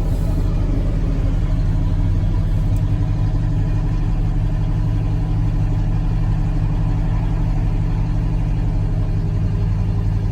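International Harvester Travelall engine idling steadily on choke, shortly after a cold start on a week-cold engine.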